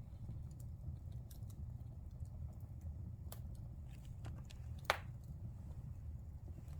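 Wood fire burning in a fireplace: a steady low rumble of flames with scattered small crackles, and one sharp, loud pop about five seconds in.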